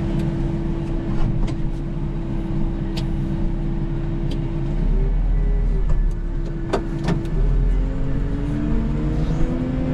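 Cat 906 wheel loader's diesel engine running steadily, its pitch shifting about five seconds in and climbing over the last few seconds as the revs rise under hydraulic load. A few sharp metallic knocks come through, the loudest about six to seven seconds in.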